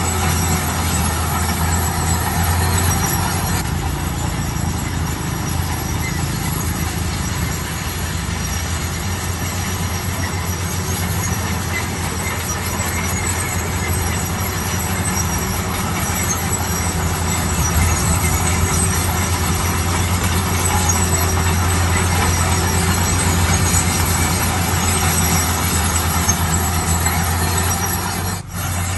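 Heavy diesel construction machinery running steadily under load: a constant low engine drone mixed with dense mechanical noise. The sound dips sharply for a moment near the end.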